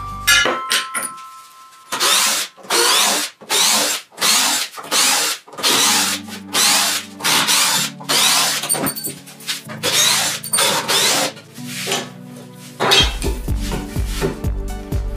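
Cordless power drill boring into a wooden workbench frame in short repeated bursts, about two a second, stopping near the end, over background music.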